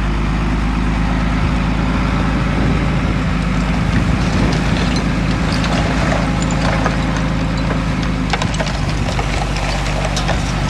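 Heavy construction machine's diesel engine running steadily, with scattered clanks and knocks from about six seconds in.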